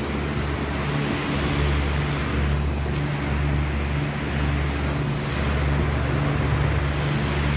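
Commercial air-conditioner condensing units running: a steady low hum with an even rush of fan noise over it.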